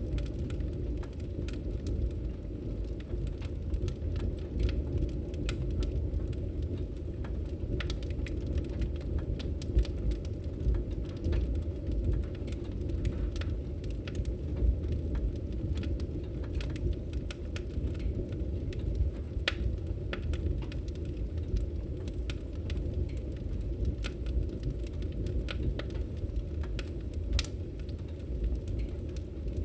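Wood fire crackling in a fireplace: a steady low rumble of the burning fire with frequent irregular sharp pops and snaps.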